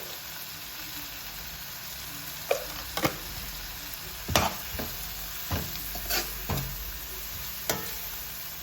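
Onion and chopped tomato frying in oil in a kadai with a steady sizzle. A spatula scrapes and knocks against the pan about eight times, starting two and a half seconds in, as the mixture is stirred.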